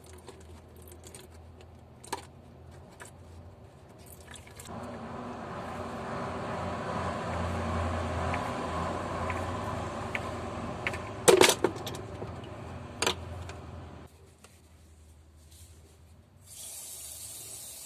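Rustling and scraping work on the engine's underside, with two sharp metallic clanks, then an aerosol cleaner starting a steady spray hiss near the end as the oil filter seat is washed.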